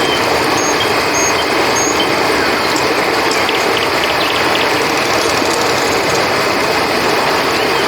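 Steady rushing of a flowing river, with a few faint, short, high chirps now and then above it.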